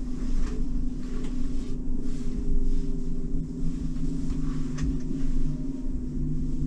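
Cab noise of a Scania battery-electric truck on the move: low road and tyre rumble under a steady hum from the electric driveline, with no engine sound.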